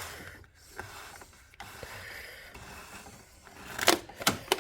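Hood release cable being pulled through the car body: a steady rubbing scrape, then two sharp knocks near the end.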